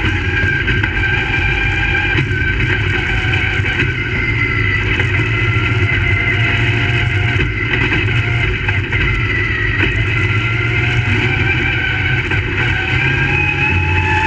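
Crate late model race cars' V8 engines running at racing speed, several at once, their pitch rising and falling slowly as the cars go around the track.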